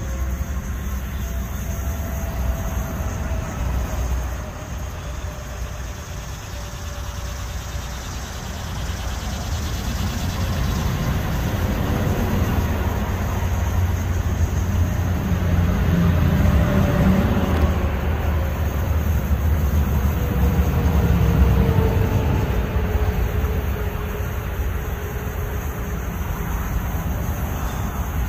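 Freight train rolling by: a steady low rumble that builds to its loudest about two-thirds of the way through, then eases, with faint thin tones slowly sliding in pitch above it.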